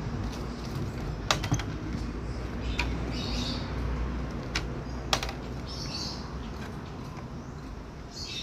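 Sharp clicks and rattles of a wire birdcage and its door being handled, with three short calls from a caged bullfinch, about three, six and eight seconds in, over a low steady hum.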